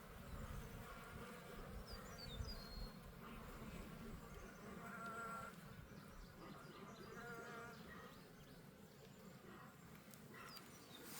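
Honeybees buzzing faintly around an opened hive, with a couple of louder passes about five and seven seconds in as bees fly close by. A few faint high chirps come about two seconds in and near the end.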